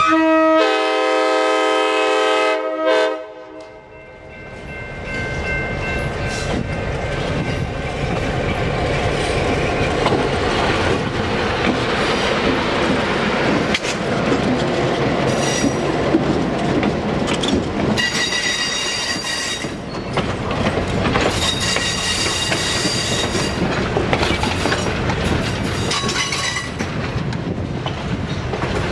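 A passenger train's air horn sounds a chord for about three seconds, with a brief break just after it starts. Then the train passes close by: a continuous rumble of wheels and cars with rapid clickety-clack over the rail joints, and several spells of high-pitched metallic squeal in the second half.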